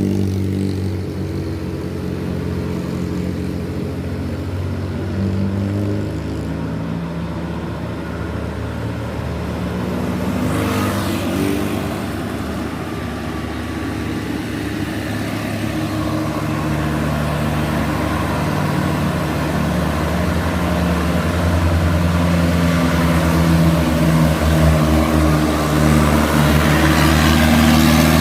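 Mitsubishi Colt Diesel truck's diesel engine pulling hard up a steep climb. Its pitch holds steady, then shifts, and it grows louder toward the end as the truck comes closer.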